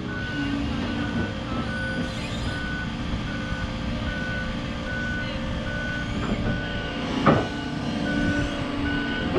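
Reversing alarm beeping steadily, about one and a half beeps a second, over a diesel engine running. A single sharp clank about seven seconds in.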